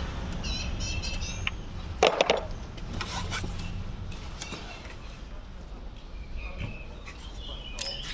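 Metal hand tools clinking and tapping against bolts and the engine while the starter motor's mounting bolts are undone, with a sharp clatter about two seconds in and lighter taps after it.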